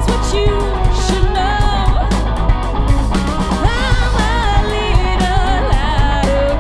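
A rock band playing live: a steady drum beat and bass under electric guitar, with a bending, gliding melodic lead line over the top.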